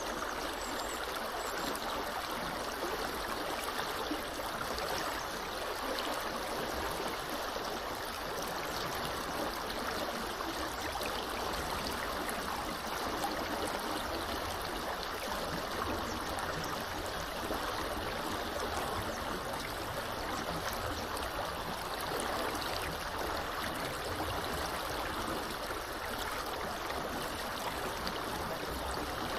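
Small river flowing steadily: an even, unbroken rush of running water.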